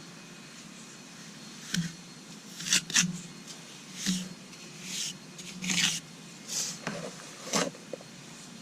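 A hand trowel scraping and pressing a dry sand-and-portland mortar mix into a patch on a concrete step: a series of short scraping strokes, about one a second, starting about two seconds in.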